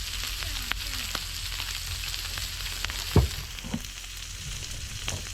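Pork belly frying in a pan: a steady sizzle with scattered fine crackles and spits. A single loud low thump about three seconds in, after which the sizzle eases slightly.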